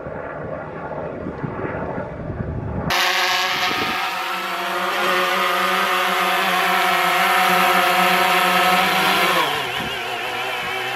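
Military helicopter flying past: a low, rough rumble at first, then, from about three seconds in, a loud steady engine-and-rotor drone. Its pitch drops near the end as it goes by.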